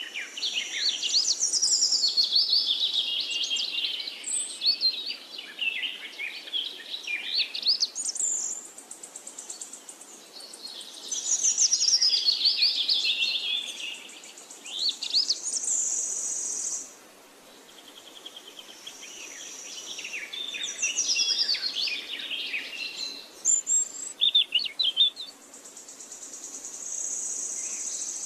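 Birds singing: a busy mix of quick chirps, trills and whistled notes sliding up and down in pitch, with a high, even trill at times.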